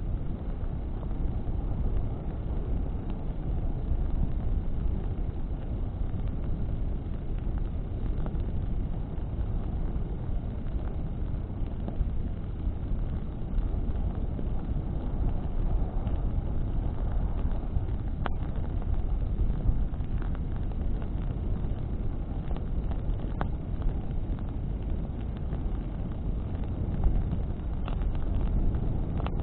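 Bonfire burning in the wind: a steady low rushing noise of flames and wind, with a few faint crackles from the burning wood.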